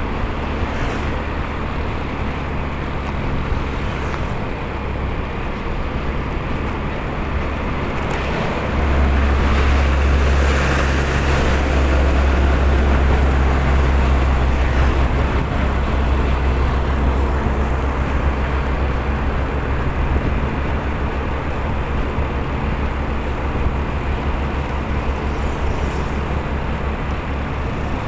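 Motorcycle on the move: steady road and wind noise with a strong low rumble. It grows louder about nine seconds in and eases off again after about fifteen.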